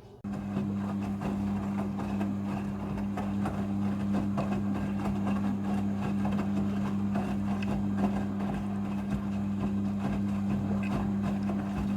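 Midea front-loading washing machine running in its rinse cycle: a steady electric motor or pump hum with rushing water, cutting in suddenly just after the start.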